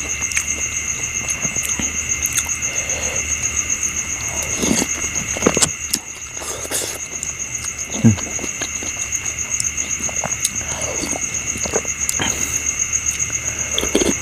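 A steady chorus of insects trilling, with a high, finely pulsing buzz and a second, lower trill running together. Close-up chewing and a few sharp clicks of eating sound over it now and then.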